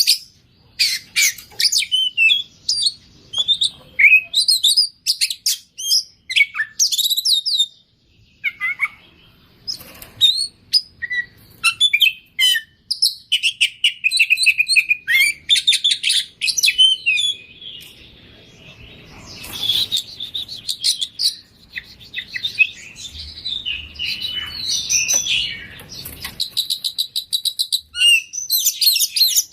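Oriental magpie-robin singing loud and continuously: a varied run of whistles, trills and rapid repeated chattering notes, with phrases copied from other birds mixed into its song.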